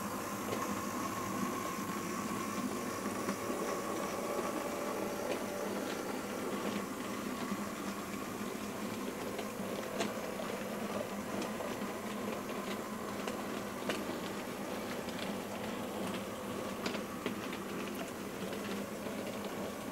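OO gauge model diesel locomotive running on the track with a steady hum from its motor and DCC sound, and occasional sharp clicks of wheels over rail joints.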